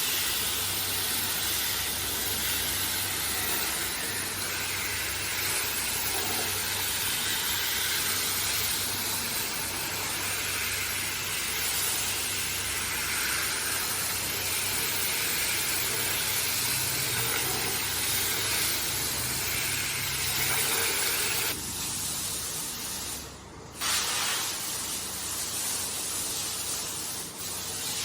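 Hand-held car wash sprayer spraying water onto a carpet: a steady, loud hiss over a low pump hum, cutting out for about a second near the end before starting again.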